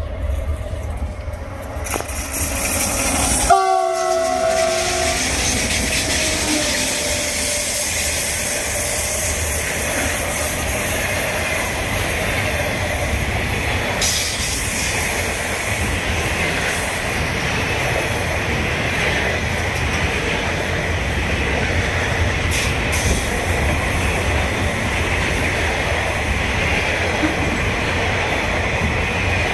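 Class 18E electric locomotives passing close by with a short multi-tone horn blast about three and a half seconds in, falling slightly in pitch as they go past. After it comes the steady rolling noise of a long string of enclosed car-carrier wagons running by on the rails.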